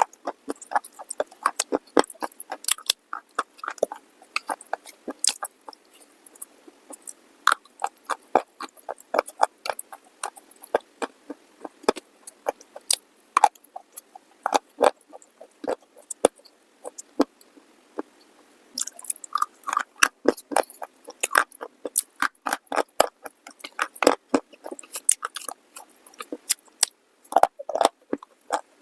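Close-up crunching and chewing of hard, dry clay pieces: rapid sharp crackles and crunches from bites and grinding teeth. They thin out briefly twice and come thickest in the last third.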